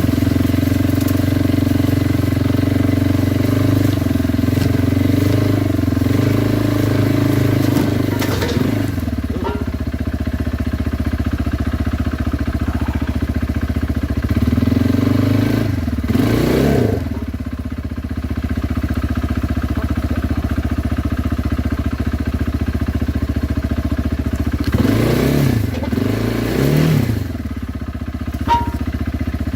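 Kawasaki Brute Force 300 ATV's single-cylinder engine running steadily while riding. Its speed changes briefly a couple of times, with two quick revs near the end.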